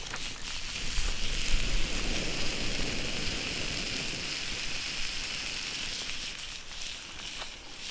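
Campfire burning, a steady crackling hiss with scattered small pops. A low rumble swells between about one and two seconds in.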